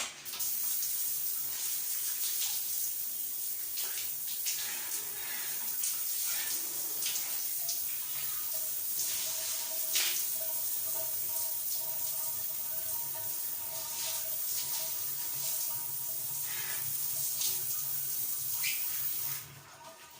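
Water running steadily from a tap, cut off suddenly near the end.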